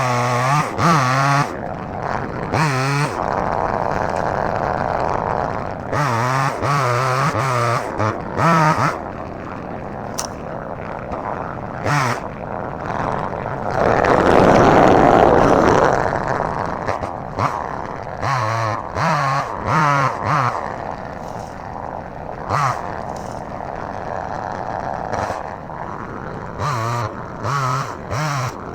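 A small engine revving up and down in repeated bouts, its pitch wavering with each one, with a louder rushing stretch about halfway through.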